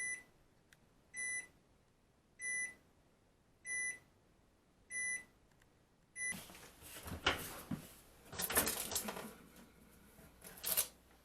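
An appliance's electronic beeper sounds six times, short steady beeps about a second and a quarter apart. It is followed by several seconds of rustling and clattering handling noise with a few sharper knocks.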